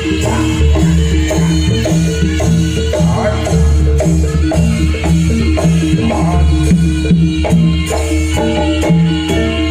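Jaranan senterewe music: a gamelan-style ensemble plays struck metal keys and drums over a heavy bass, with a steady, even beat.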